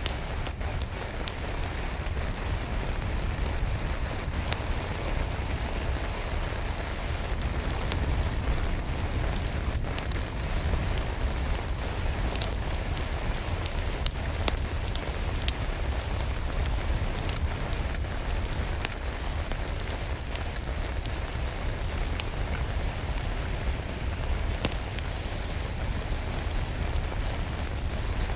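Steady rain falling, with the scattered small pops and crackles of a wood fire burning in a fireplace over a low rumble.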